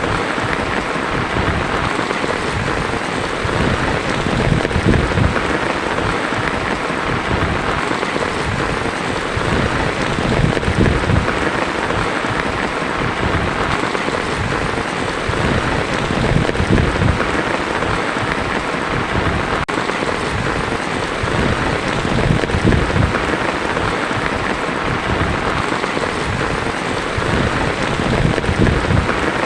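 Heavy rain falling on a tin roof: a steady, dense hiss with a low rumble underneath that swells and fades every few seconds.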